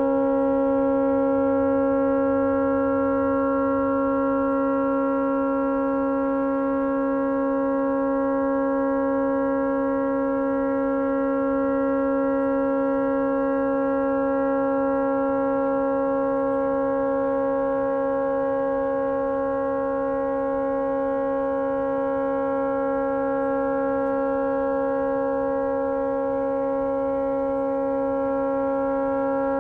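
Tugboat horn stuck on, sounding one continuous, unbroken chord of several steady pitches. The horn has malfunctioned and will not shut off.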